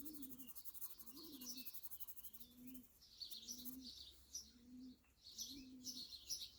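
Faint outdoor birdsong: one bird gives a low call repeated about once a second, while small birds chirp higher up.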